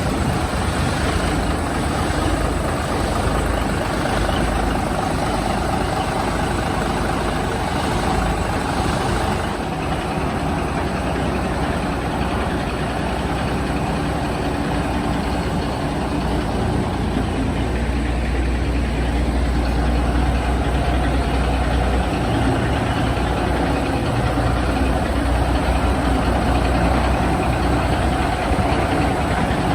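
1974 Kenworth W900's diesel engine running at idle through straight-pipe exhaust stacks with the mufflers removed, a steady heavy engine note.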